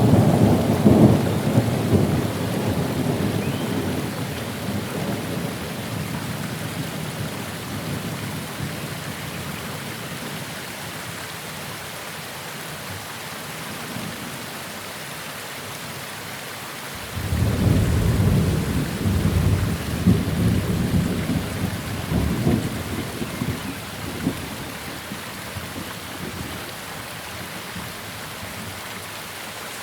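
Steady rain with two rolls of thunder: the first rumbling at the start and fading over a few seconds, the second breaking out suddenly a little past halfway and rumbling for several seconds before dying away.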